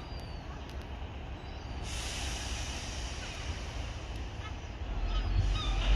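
Diesel multiple unit at a station: a steady low engine rumble, with a hiss of air switching on about two seconds in and the engine growing louder near the end.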